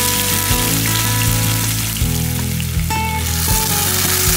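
Crushed ginger and garlic sizzling in hot oil with cumin seeds in a nonstick frying pan: a steady, even hiss.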